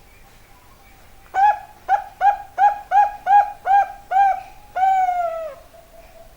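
Bangkok zebra dove (perkutut) cooing. A quick run of about eight short coos is followed by one longer coo that falls in pitch.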